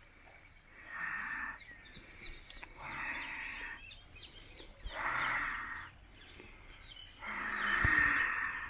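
Birds chirping outdoors, with a louder, harsher call repeating four times about every two seconds, the last one the loudest.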